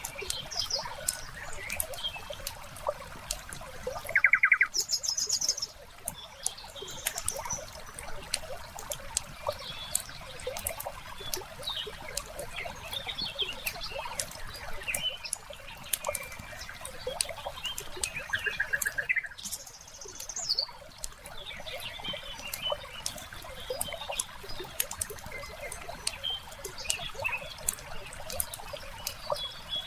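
Wood fire crackling with frequent sharp pops, with small birds chirping. A short buzzy trill about four seconds in is the loudest sound, and another comes near nineteen seconds.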